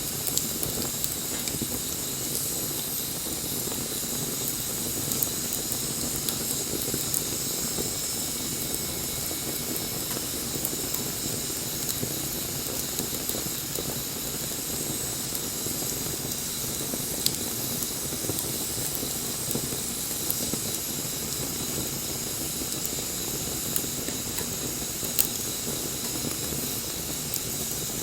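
Bonfire burning with a steady hiss and scattered sharp crackling pops, the loudest near the end.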